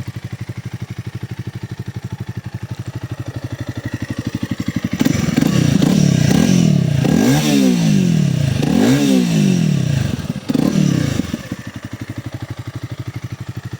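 Honda CRF300L's single-cylinder four-stroke engine idling with an even exhaust pulse, then revved up and let fall back about three or four times over several seconds, before settling back to idle.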